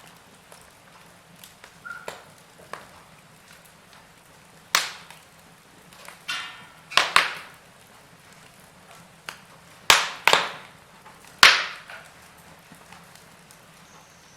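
Wood fire burning in a fireplace: sharp crackles and pops over a faint hiss, loudest in a cluster near the middle and three more a little later.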